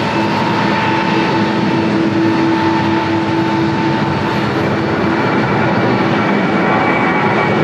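Jet airliner engines running loud and steady, a broad rush of noise with whining tones; a lower tone fades about halfway through and a higher whine comes in near the end.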